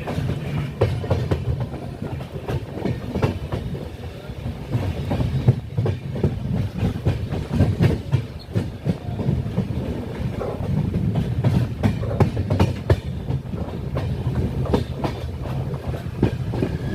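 Vaigai Superfast Express train running at speed: a steady low rumble of wheels on track, with frequent irregular clacks as the wheels pass over rail joints.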